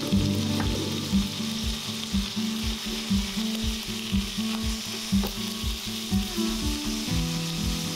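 Beef slices frying in rice oil in a frying pan on low heat, a steady sizzle while they are stirred and broken apart.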